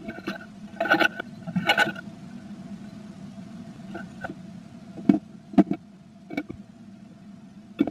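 Short scratches and taps inside a wooden nest box as a female blue tit shifts and works nesting material, about half a dozen scrapes and knocks at uneven intervals, over a steady low electrical hum.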